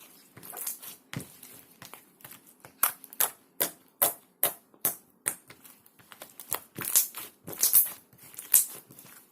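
Light green clear slime being pressed and squished by hand, giving irregular sharp, sticky pops and clicks about one to two a second.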